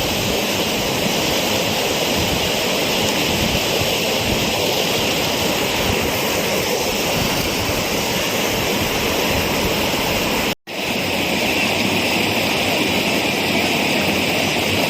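Rushing floodwater, a loud steady rush with a brief cut-out about ten and a half seconds in.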